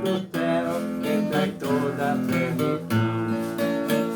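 Instrumental music: an acoustic string instrument strummed in a steady rhythm, with melody notes over the chords.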